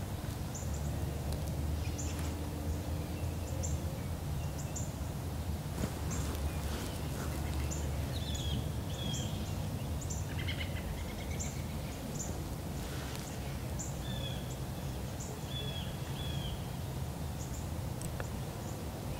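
Small birds chirping and calling in scattered short, high notes over a steady low rumble.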